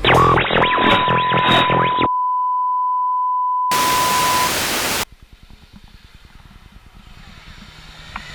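A steady electronic beep tone held for about four seconds, at first over a loud, muffled clip. It is followed by a loud burst of static hiss lasting about a second that cuts off sharply, leaving faint crackle.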